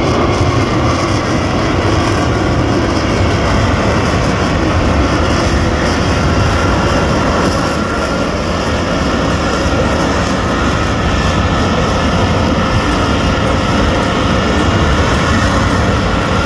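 Aircraft engine noise from a display aircraft overhead: a loud, steady rushing drone with no break.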